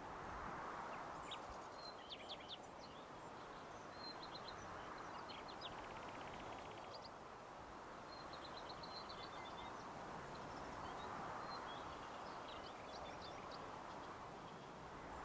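Small birds chirping and trilling on and off, including two quick rapid trills in the middle, over a faint steady outdoor rush that slowly swells and fades.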